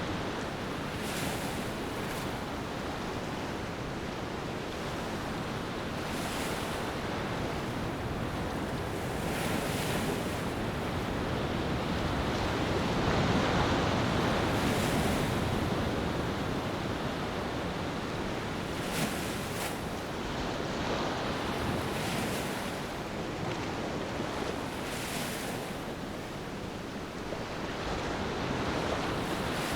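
Ocean surf on a beach: waves washing in and breaking one after another, swelling to their loudest about halfway through.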